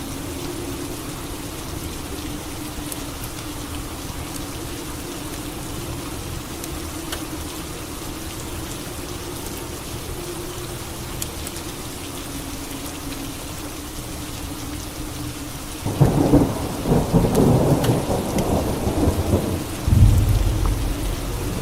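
Steady rain falling. About three-quarters of the way in, a thunderclap breaks suddenly with a crackling peal, followed by a deeper low rumble near the end.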